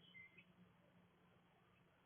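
Faint small-bird chirps, two short high notes in the first half second, then near silence with a low steady hum.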